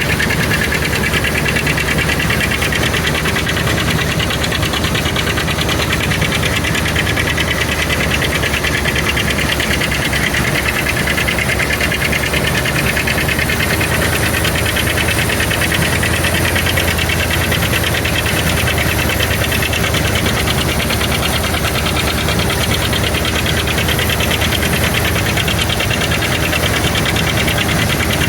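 Engine of old soybean-harvesting machinery running steadily under load, with a fast, even rattle and no change in speed.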